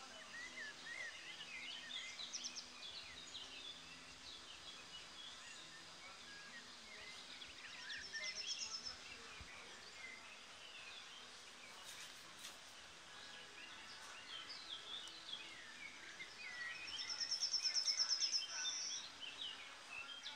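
Songbirds chirping and singing, with a fast, high trill about 8 seconds in and a louder one near the end.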